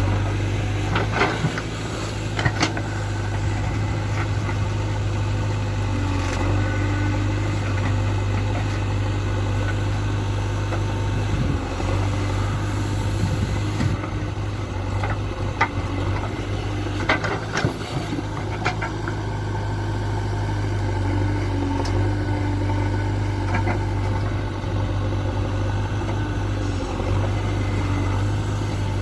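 JCB 3DX backhoe loader's four-cylinder diesel engine running steadily, with a mid-pitched tone that wavers from time to time. A few sharp knocks come through, several in the first few seconds and a cluster about two-thirds of the way in.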